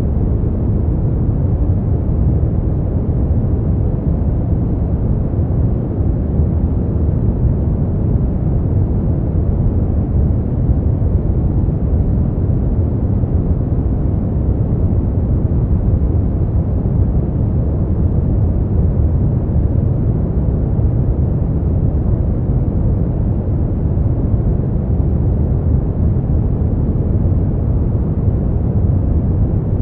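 Steady sleep-aid noise, a deep, even rumble weighted to the low end with almost nothing in the treble, closer to brown noise than to bright white noise.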